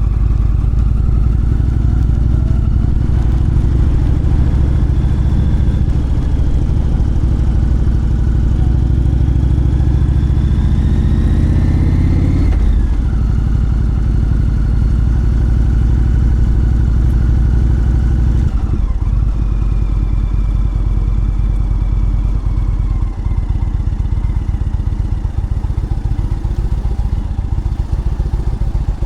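Motorcycle engine pulling away, its pitch rising steadily for about twelve seconds before dropping sharply as it changes gear. It then runs steadily, dropping again a few seconds later and easing off near the end.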